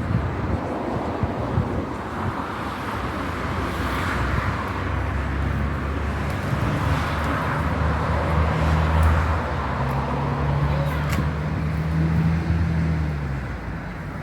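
A motor vehicle passes with a low engine hum that builds over several seconds, is loudest about nine seconds in, and fades near the end, over a steady rushing noise.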